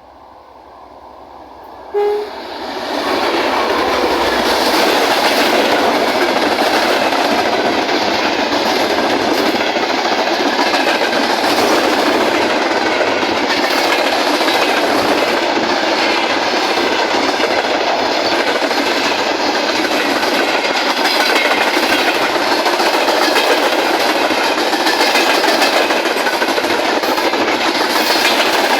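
Freight train hauled by a 2TE10UK diesel locomotive passing close by: the sound comes in suddenly about two seconds in, then a long steady rush of wagons with wheels clattering over the rail joints.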